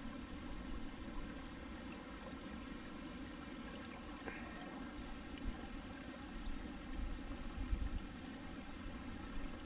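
Small mountain stream babbling steadily over rocks, with a few brief low rumbles about three-quarters of the way through.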